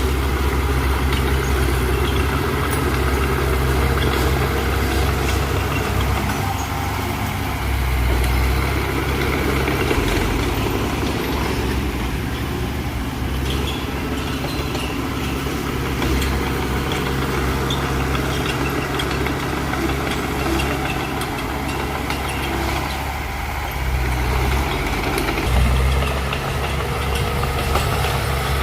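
Diesel engine of a Mitsubishi BD2F bulldozer running steadily while it pushes soil, its low note swelling and easing every few seconds as the load changes.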